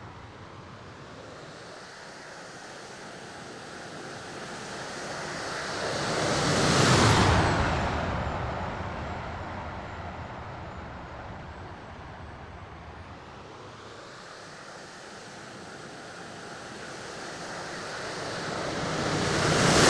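Radio-controlled F-16 model jet making two fast passes: the jet noise swells to a peak about seven seconds in, drops in pitch as it goes away and fades, then builds again to a second, louder peak at the end.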